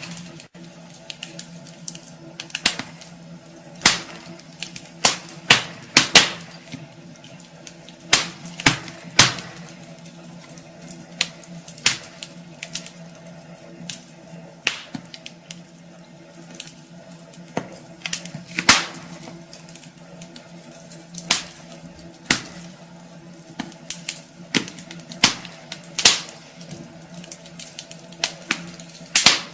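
Wood fire crackling in a fireplace: irregular sharp pops and snaps from the burning logs, some louder than others, over a faint steady hum.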